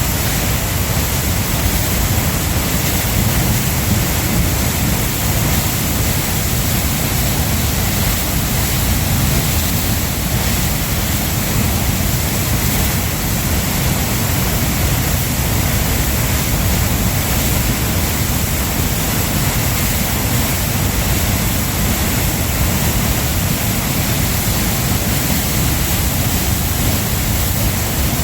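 A waterfall's falling water rushing steadily and loudly at close range.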